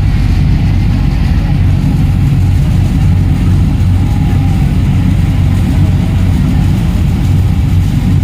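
Boat engine running steadily: a loud, unchanging low drone with a fast, even throb.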